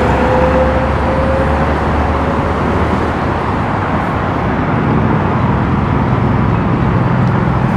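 Semi trucks' diesel engines running and pulling away, a steady low rumble with a faint rising whine that fades out in the first few seconds; the low engine note grows stronger toward the end.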